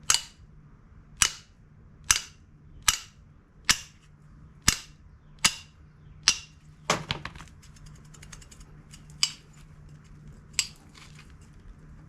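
Hammer blows on a steel bolt used as a drift, driving a tight hinge pin out of a 1970 Chevelle door hinge into a socket. About nine sharp metallic strikes come roughly a second apart, then two more with longer gaps.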